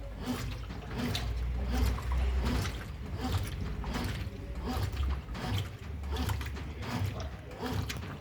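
Consul Maré 10 kg top-loading washing machine agitating a load: water and clothes sloshing in quick repeated strokes, about two a second, over a low motor hum.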